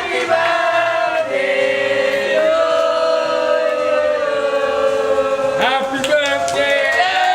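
A group of people singing a birthday song together in long held notes.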